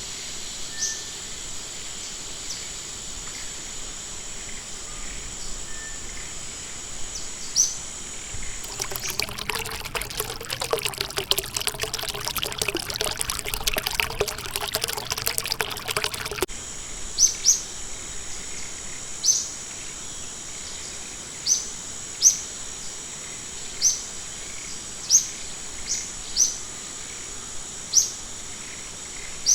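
Forest ambience: a steady high insect buzz, with a bird repeating a short, sharp chirp every second or so through the second half. About nine seconds in, a burst of splashing, pouring water starts suddenly and cuts off just as suddenly some seven seconds later.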